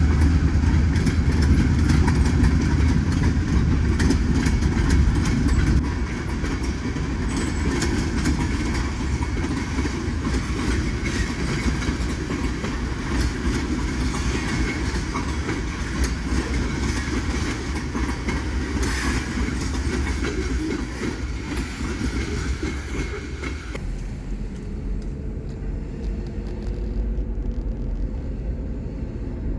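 Freight train rolling past, its wheels clacking and rumbling on the rails in a steady loud din that drops away abruptly near the end, after which a faint engine tone rises.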